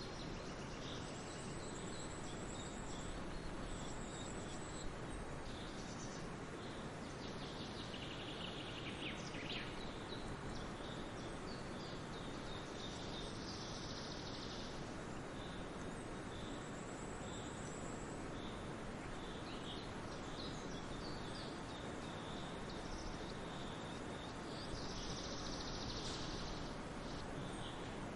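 Songbirds chirping and trilling in scattered bursts over a steady rushing background of wind and distant falling water.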